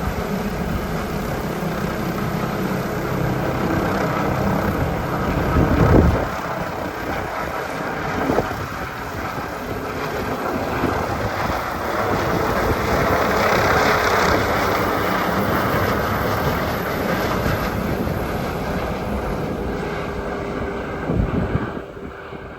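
Rescue helicopter's rotor and turbine noise as a steady, loud rush after take-off. It swells around the middle and fades away at the end, with a few short thumps.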